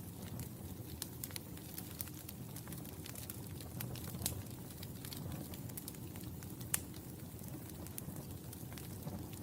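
Wood fire in a fireplace crackling: irregular sharp pops and snaps over a steady low rumble of the flames, with two louder pops about four and seven seconds in.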